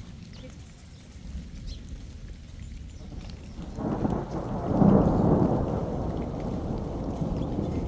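A roll of thunder that swells suddenly about four seconds in, peaks, then rumbles on slowly fading, over falling rain.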